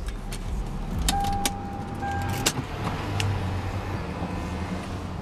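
Lexus GS300's straight-six engine idling steadily, heard from inside the cabin. Several sharp clicks sound over it, and a steady beep-like tone sounds for over a second, starting about a second in.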